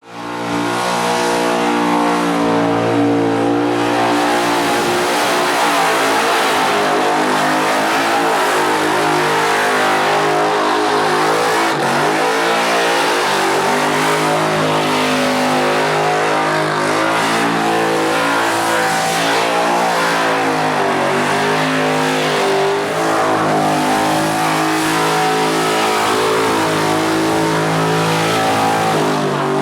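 1700-horsepower Ford Falcon XP burnout car's engine held at high revs in a long burnout, the revs rising and dipping again and again over the hiss of tyres being shredded.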